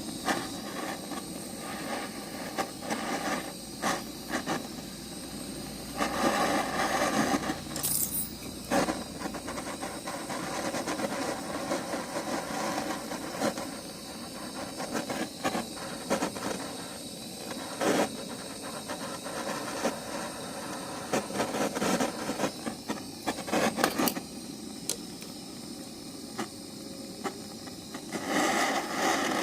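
Gas torch flame hissing while the brass lower pillar of a pressure lantern is heated for soldering, with scattered light metallic clinks and taps of tools on the metal. The torch gets louder near the end.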